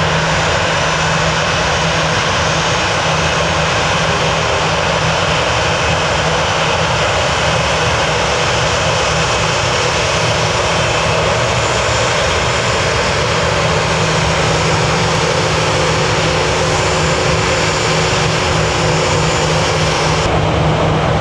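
Jet airliner engines running loud and steady, a continuous wash of engine noise with a low hum underneath, from an aircraft moving on the runway. Just before the end the highest frequencies cut away suddenly.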